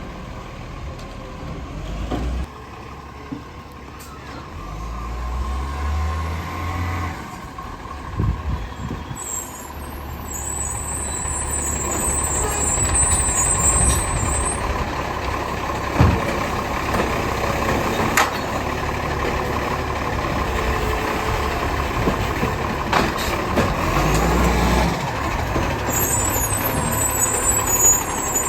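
Garbage truck's engine running and growing louder, with bursts of hissing air and a few sharp knocks.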